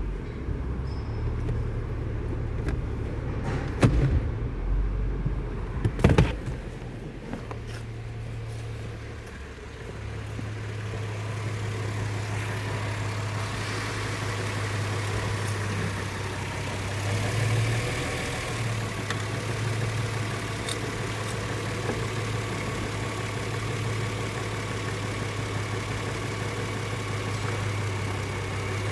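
Subaru Tribeca's 3.0-litre EZ30D flat-six engine idling steadily, with a few sharp knocks in the first several seconds.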